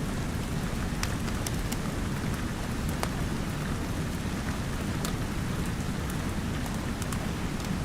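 Steady, deep rain noise with a wood fire crackling over it, giving scattered sharp pops every second or two.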